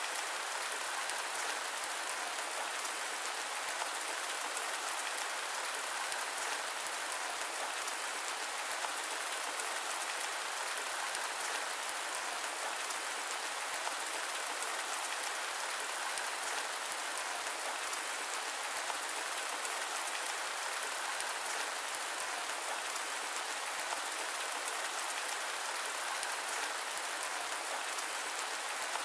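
Steady rain falling, an even hiss that holds constant throughout with no thunder.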